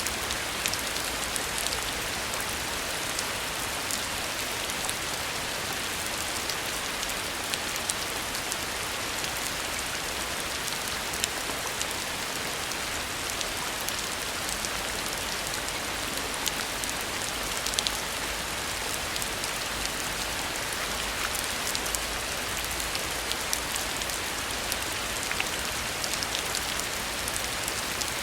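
Heavy rain falling on an old country house: a steady, dense hiss with many sharp drop ticks scattered through it.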